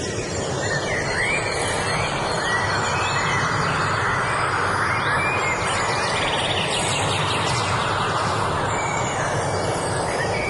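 Birds chirping in short, curving calls over a steady rushing background noise.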